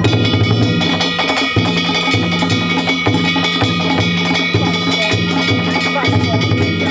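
Danjiri bayashi: a large taiko drum beating a steady rhythm, about two strokes a second, under small kane gongs clanging and ringing continuously.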